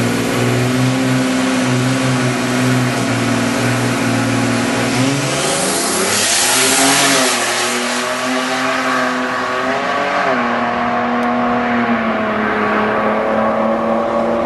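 Twin-turbo V6 Ford Mustang engine running at a steady note, then a loud rushing surge about six seconds in as the revs change. After that the engine settles back to a steady note.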